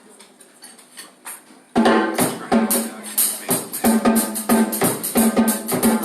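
Live band music starting suddenly about two seconds in, loud, with a steady beat of sharp percussion hits over pitched instruments. Before it, a quiet room with faint clinks.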